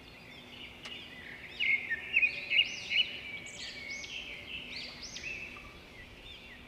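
Several cockatiels chirping, with quick overlapping calls that sweep up and down in pitch and are loudest in the first half.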